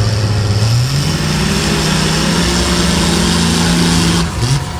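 A pulling truck's engine running hard under load; its pitch climbs about a second in, holds steady, then drops off near the end as it lets off.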